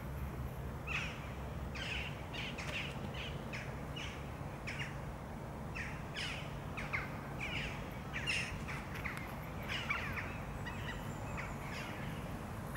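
Birds calling in short, sharp, falling notes, about two a second, over a steady low background rumble.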